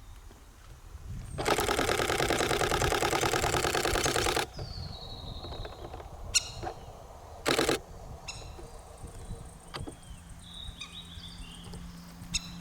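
Nikon D500 shutter firing a long rapid burst for about three seconds, then a single shot and a short burst of a few frames. Faint bird calls come in between.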